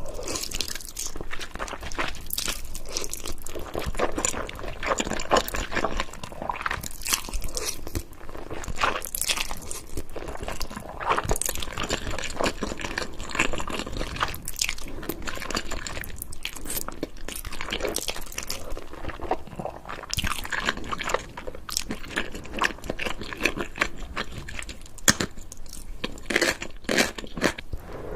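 A person biting and chewing noodles with chicken close to the microphone: a continuous, irregular run of mouth clicks and chewing noises.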